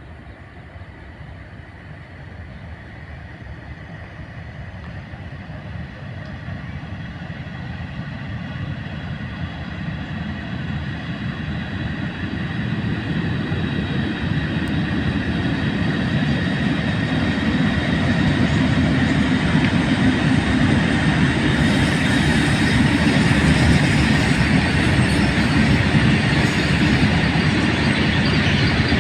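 A passing train growing steadily louder as it approaches over about fifteen seconds, then running by at full level with wheels clattering on the rails.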